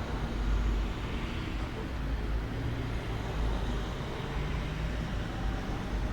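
Steady outdoor ambient noise with a low, fluctuating rumble.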